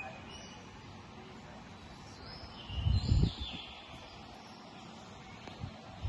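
Outdoor ambience: birds chirping, with a few short whistled notes over a steady background hiss. A brief low rumble comes about halfway through.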